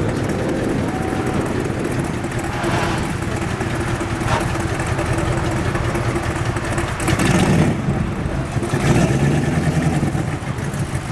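Shelby Cobra 427's big-block V8 running at idle, revved up briefly twice in the second half.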